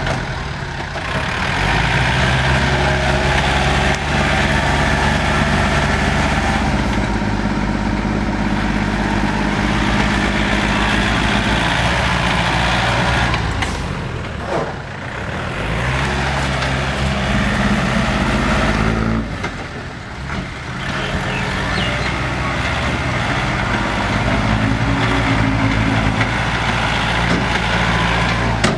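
Yanmar and Kubota farm tractors' diesel engines running hard while pushing soil. The engine note dips and recovers twice along the way.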